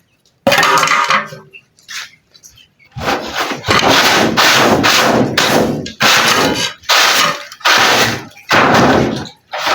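Cleaning of a poultry cage: a single rough, noisy stroke about half a second in, then a run of similar strokes about once a second.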